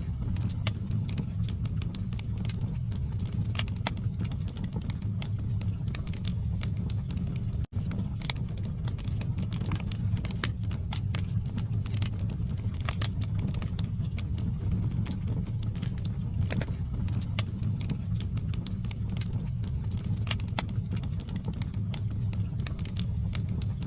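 Wood logs burning in a fireplace: a steady low rumble of the flames with frequent, irregular sharp crackles and pops. The sound cuts out for an instant about eight seconds in.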